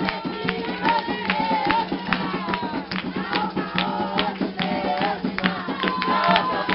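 Group of voices singing a chant for the orixá Xangô, over a steady beat of hand-clapping and percussion.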